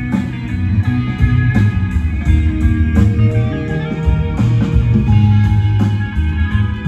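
Live band playing through a PA during a sound check: electric guitar over bass with a steady beat.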